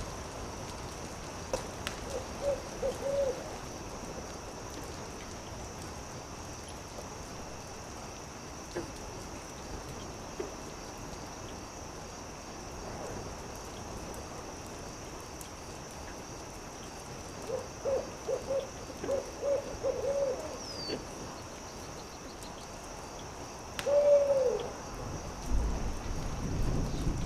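Owl hooting: a quick run of short hoots about two seconds in, a longer run of about seven hoots around eighteen to twenty seconds, and one louder hoot that falls in pitch near the end. Under it runs a steady faint hiss with a few faint campfire crackles, and a low rumble comes in at the very end.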